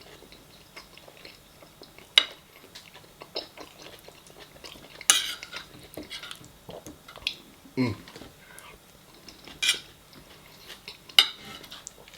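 Metal cutlery clinking and scraping against a plate during a meal, with a few sharp clinks standing out, and a short low voice sound about eight seconds in.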